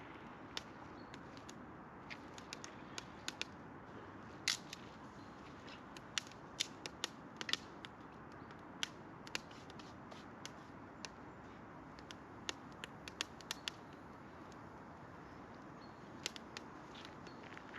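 Campfire burning, the wood crackling and popping: irregular sharp pops over a steady low hiss, the loudest about four and a half seconds in.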